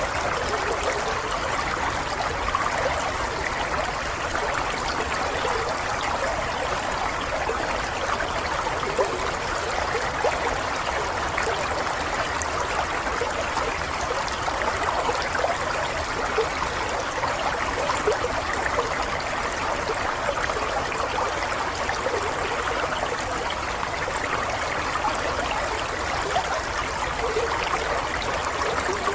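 Steady stream of running water, trickling and babbling evenly with small splashes.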